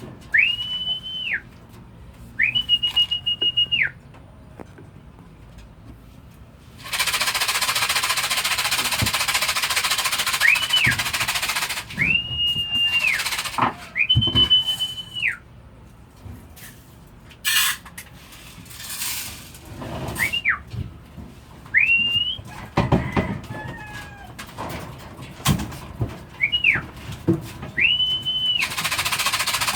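Repeated whistled calls of the kind a fancier uses to call racing pigeons down into the trap: each note slides up to a high held pitch for up to a second and then drops away, sometimes as short chirps. Between them come a few seconds of loud, even hiss and scattered clicks.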